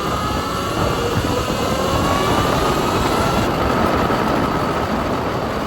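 Arctic Leopard XF electric pit bike riding on the road: heavy wind rumble on the microphone, with the electric motor's thin whine rising slowly in pitch as it speeds up, then holding steady.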